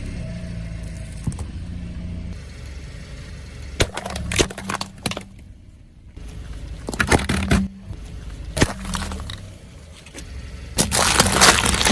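A car's engine runs at low speed while its tyres roll over and crush objects. There are sharp cracks and crunches about four, seven and eight and a half seconds in, then a longer, louder crunching near the end.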